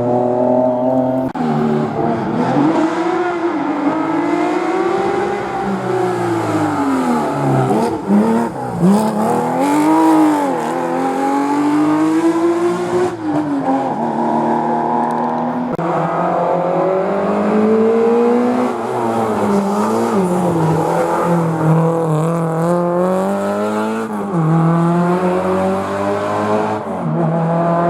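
Historic rally car engine working through a hairpin bend under hard driving: the revs fall and climb again and again as the car brakes and accelerates through the gears.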